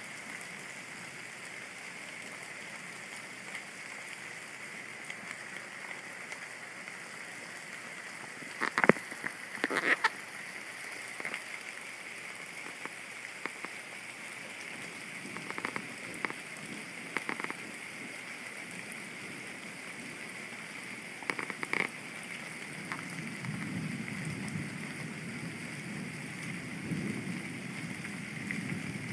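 Steady heavy rain during a thunderstorm, with a faint steady high-pitched tone behind it. Several sharp taps stand out, the loudest about 9 and 10 seconds in. A low rumble of thunder builds from about 23 seconds in.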